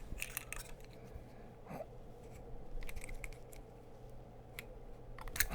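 Light clicks and small scrapes from handling battery cells and small hand tools, scattered and irregular over a low steady hum.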